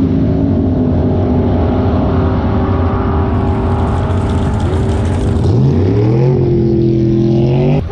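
Race car engine running hard at steady high revs; around six seconds in its pitch dips and then climbs again, and the sound cuts off suddenly near the end.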